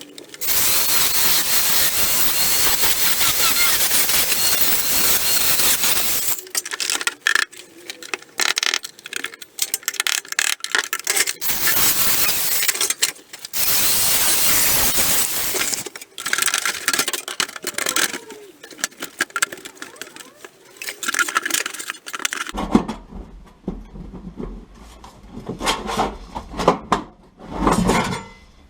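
Power cutting tool chopping through sheet-steel car floor panel, a long cut of about six seconds followed by shorter bursts of cutting. In the last several seconds, scattered clanks and knocks of the loose metal panel being handled.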